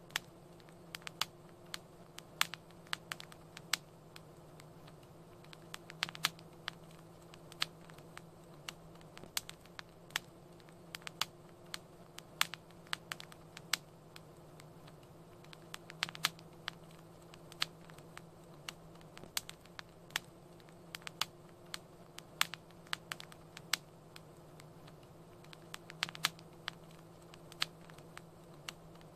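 Wood fire crackling in a fireplace: irregular sharp pops and snaps, sometimes several a second and a few louder, over a steady soft hiss and low hum.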